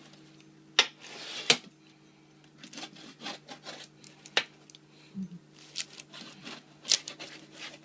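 Pizza cutter wheel rolling and scraping through a baked pizza crust, with several sharp clicks and knocks of the cutter against the surface beneath, the loudest about a second and a half in.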